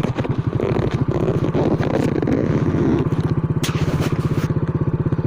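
Motorcycle engine running with a fast, even beat as the bike pulls away, with a brief hiss about three and a half seconds in.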